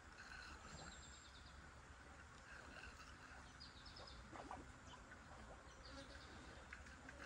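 Faint outdoor ambience: small birds chirping in short, high trills, over a low steady rumble.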